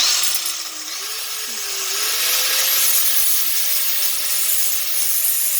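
Grinder with a cut-off wheel cutting through a steel seat bolt: a loud, hissing grind that starts abruptly, with the motor's whine sagging under load in the first two seconds and then rising and holding steady.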